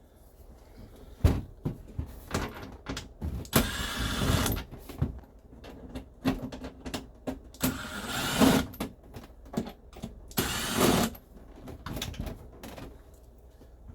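Cordless drill-driver backing screws out of a dashboard panel in three bursts of about a second each, with clicks and knocks of the screws and plastic trim between them.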